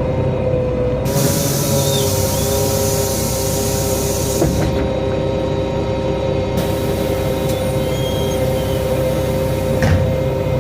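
NefAZ-5299 city bus running, heard from inside, with a steady whine from the engine and drivetrain that holds one pitch. Twice it is joined by a long high hiss: the first starts about a second in and lasts some three seconds, and the second starts past halfway and runs on.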